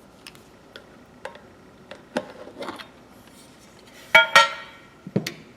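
Steel pliers handled on a workbench: scattered light clicks and taps, then a loud metallic clatter with a short ring about four seconds in and another knock near the end.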